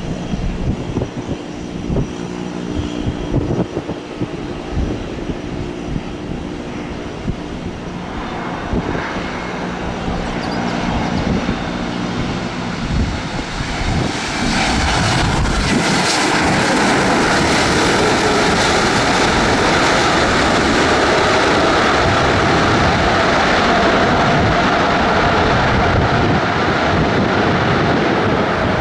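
Aircraft engines running: a steady low hum for the first half, then engine noise builds and, about halfway through, jumps to a loud, steady level with a high whine that holds.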